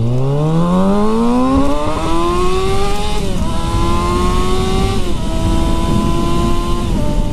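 Ducati Monster 1200R's L-twin engine accelerating hard through the gears, with wind rush. The engine note climbs steeply, then drops with an upshift about three seconds in, again about five seconds in, and once more near the end.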